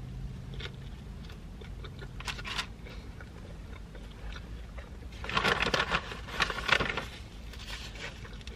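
Close-up chewing of a mouthful of burger: soft wet crunches and mouth clicks, with a denser run of crackly chewing sounds about two-thirds of the way through.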